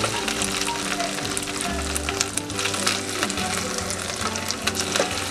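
Paneer cubes sizzling in hot oil in a frying pan, with light clicks and scrapes as a silicone spatula turns and lifts them; the cubes are fried golden and done. Background music plays underneath.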